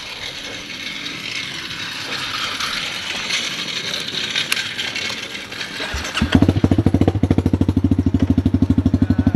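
A steady hiss for about six seconds, then a motorcycle engine fires up and settles into a loud, steady idle with a rapid even pulse.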